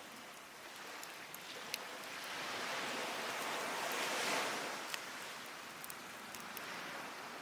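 Surf washing up on the shore, swelling to a peak about four seconds in and falling away, with scattered sharp pops and crackles from a wood fire.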